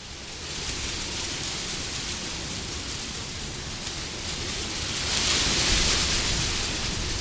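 Wind blowing steadily as a rushing noise, swelling in a stronger gust about five seconds in and easing off again.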